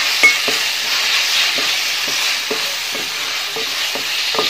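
Onions, tomatoes and green chillies frying in oil in a large metal pot, sizzling steadily, while a spatula is stirred through them, knocking and scraping against the pot about twice a second.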